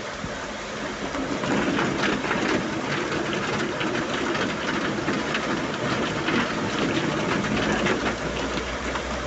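Heavy rain with vehicle engine and road noise underneath. The drops make a dense crackle that gets louder about a second and a half in.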